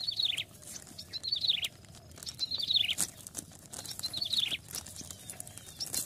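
A small bird calling a short, high note that slides downward, five times about every second and a half, over faint rustling and clicking of a plastic bag being handled among grass stalks.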